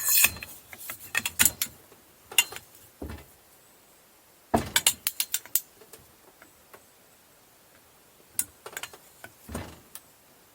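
Metal hand tools clinking and a ratchet wrench clicking in short bursts, with quiet gaps between, while a puller is worked onto the engine's flywheel. The longest run of rapid clicks comes about halfway through.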